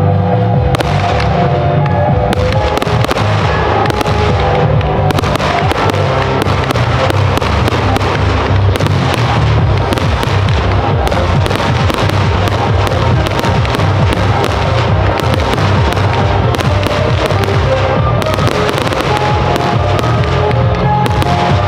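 Aerial fireworks bursting many times in quick succession throughout, over music.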